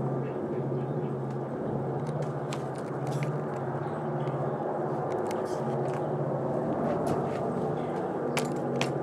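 Diesel locomotives of a freight train running with a steady low, throbbing engine drone, overlaid by scattered sharp clicks, two of them louder near the end.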